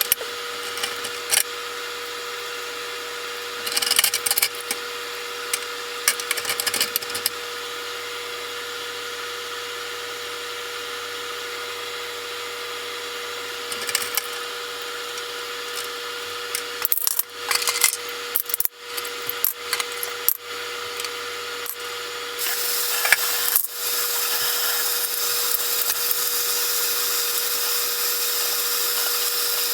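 Hand work on metal tool parts: scattered clinks and knocks over a steady machine hum. About two-thirds of the way in, a steady hiss starts and carries on.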